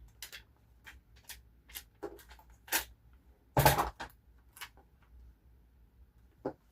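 Paper and sticker sheets being handled: scattered light rustles and small taps, with one louder rustle a little past halfway.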